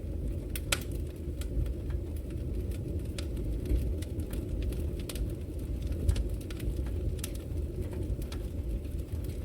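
Wood fire in a brick fireplace burning: a steady low rumble of flames with frequent scattered sharp crackles and pops from the burning logs.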